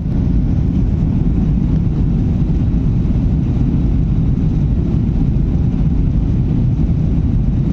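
Boeing 737-800 airliner's CFM56 jet engines and airframe making a steady low rumble.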